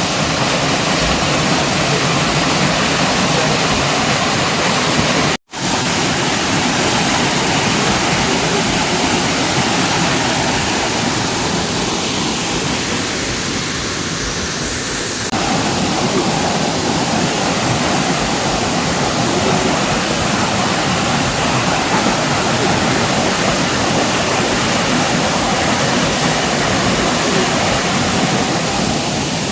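Waterfall rushing: a steady, loud wash of falling water, cut off for a split second about five seconds in.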